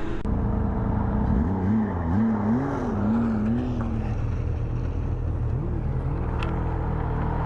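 Ski-Doo MXZ Blizzard's 600R E-Tech two-stroke twin running under way, its engine note wavering up and down for a couple of seconds, then settling to a steady pitch.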